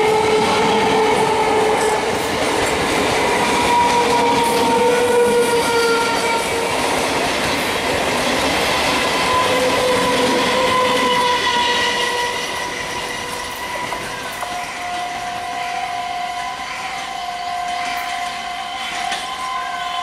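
Electric multiple unit suburban local train passing close by, its coaches rumbling and clattering over the rail joints with long drawn-out squealing tones over the noise. The sound drops off about two-thirds of the way through as the train draws away, leaving a steady higher tone.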